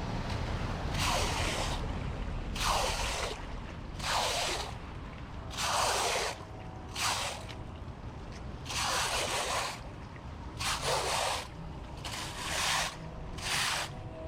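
Rhythmic splashing of floodwater, about nine swishes one every second and a half or so, over a steady low rumble.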